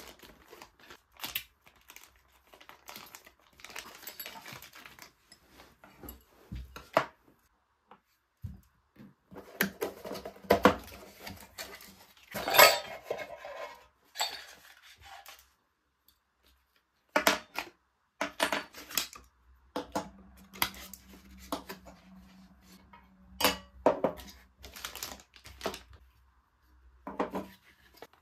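Household objects being handled at close range: irregular clinks, knocks and rustles like dishes and utensils being moved about, loudest past the first third. A low steady hum joins in for about four seconds after the middle.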